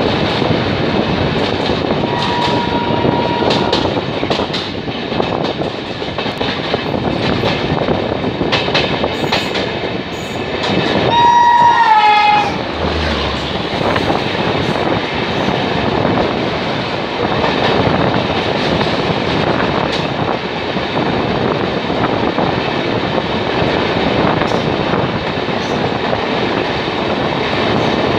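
Two Indian Railways expresses passing each other at speed, heard from an open coach door: a steady rush of wheels and wind with occasional clicks over rail joints. A short steady locomotive horn note sounds about two seconds in. A louder horn blast comes about eleven seconds in, lasts over a second, and dips in pitch as it ends.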